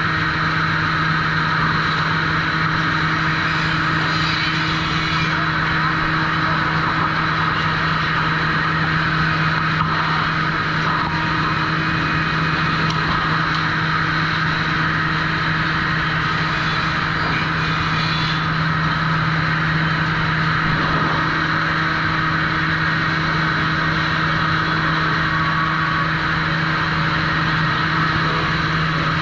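Sawmill machinery running steadily at the trim saw: a constant, loud motor hum with a steady low tone.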